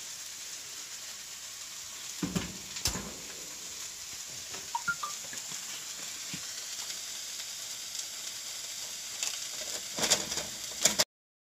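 Steady sizzling of hot food on the stovetop, from the pan of chicken guisado and the hot, greasy cheese-dough sopes, with a few knocks and clicks of a metal spoon and utensils as the half-baked sopes are pressed back into shape. The sound cuts off suddenly near the end.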